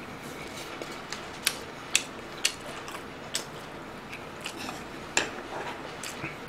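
Close-miked chewing with wet mouth smacks, heard as a handful of sharp clicks spaced irregularly, about half a second to a second apart.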